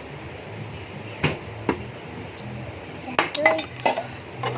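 A few sharp clicks and clinks of dishes and utensils being handled while eating, two about a second in and a quick cluster in the last second and a half, over a steady low hum.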